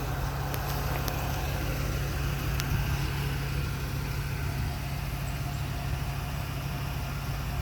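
2001 Chevrolet Silverado 2500 HD's 6.0-litre V8 idling steadily after a start, past the brief startup noise.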